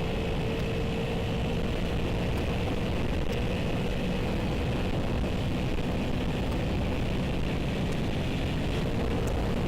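Motorcycle riding at a steady speed, heard from a helmet camera: wind rushing over the microphone, with the engine's steady drone underneath.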